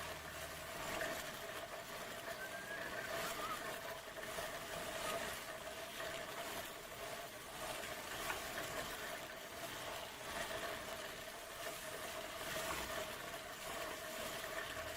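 A machine running steadily, a constant hum with one steady tone and light irregular clatter over it.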